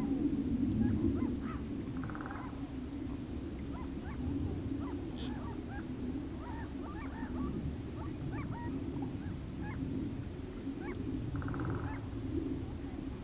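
Whooper swans honking twice, once about two seconds in and once near the end, among many short chirps of other birds, over a steady low rushing noise.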